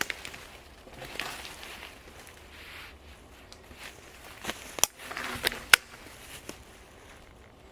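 Rustling of twigs and forest-floor debris with scattered sharp snaps and clicks, the two loudest a little before five and six seconds in.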